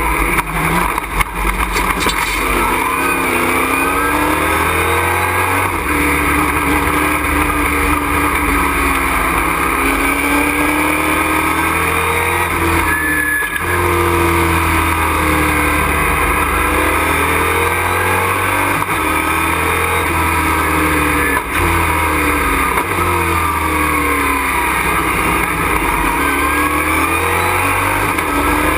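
Race truck engine heard from inside the cockpit under racing load, revs climbing again and again and dropping at each gear change and corner entry, with a sharp brief cut in revs about 13 seconds in and another about 21 seconds in.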